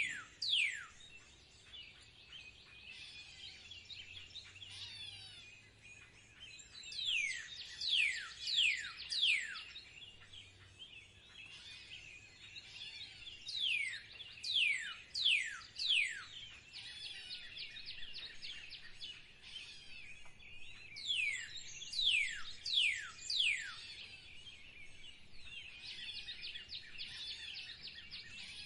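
Songbirds singing: a loud song of about four clear whistles, each sliding steeply down in pitch, repeated about every seven seconds, with softer quick chattering and twittering between songs.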